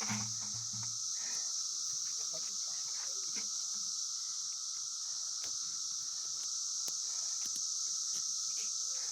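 Steady high-pitched chorus of summer insects, with scattered light clicks and taps and a brief low hum in the first second.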